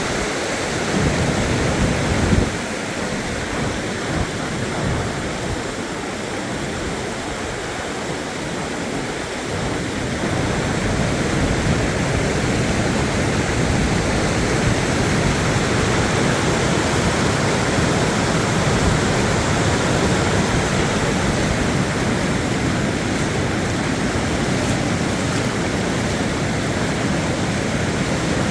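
Steady, loud rush of flowing floodwater. A few low thumps come in the first couple of seconds, and the rush fills out lower down about ten seconds in.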